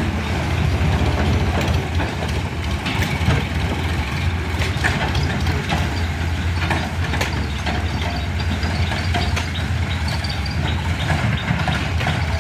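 Diesel tractor engine running steadily at a low, even throb, with a few light clicks over it.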